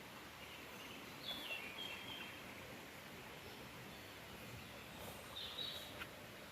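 A bird calls twice over a steady background hiss: a short phrase of high notes stepping down in pitch about a second in, and a second, briefer call near the end.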